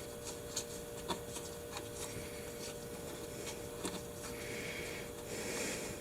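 Faint scraping and rubbing with a few scattered light clicks, from hands and a tool working at the ATV's oil drain plug, over a faint steady hum.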